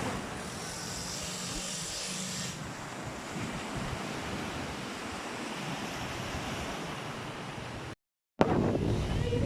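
Steady rushing noise of sea waves and wind buffeting the microphone, broken by a split-second drop to silence near the end.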